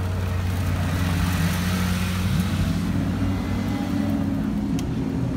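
Sports car engines, a Porsche 911 GT3 and a Bentley coupe, running at low revs as the cars roll slowly past close by: a steady deep engine note.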